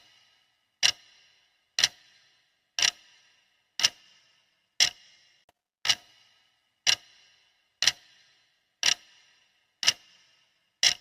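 Clock ticking sound effect of a countdown timer: one sharp tick each second, evenly spaced, each with a brief ring.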